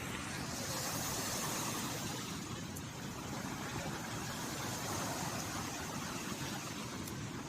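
Ocean surf breaking and washing up the beach: a steady rush of noise that swells a little about a second in and again midway.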